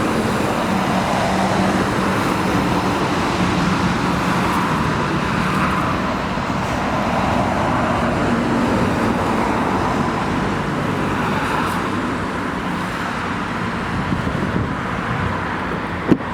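Steady road traffic noise from passing vehicles, swelling and fading slowly, with a couple of sharp clicks near the end.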